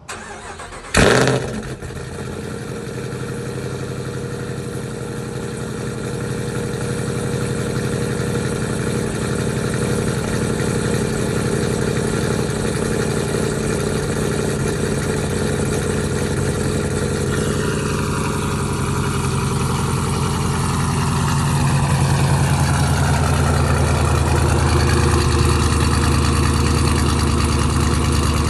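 Whipple-supercharged Hemi V8 in a Dodge Durango cold-starting: it catches with a short loud flare about a second in, then settles into a steady fast cold idle. Past the middle a high whine slides down in pitch as the idle comes down and the exhaust note deepens.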